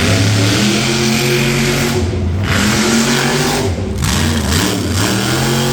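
Monster truck engine running loud and rough, revving up and down a few times as the truck sets off.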